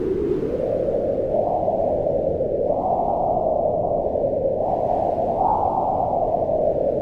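Wind blowing steadily: a low rushing noise whose pitch swells upward in gusts through the middle and eases back down near the end.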